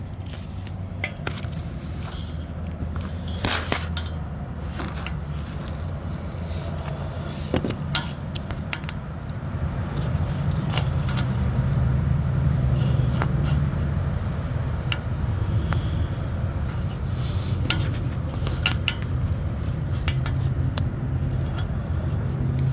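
Scattered scrapes and light metallic clinks, from handling under the car, over a steady low rumble.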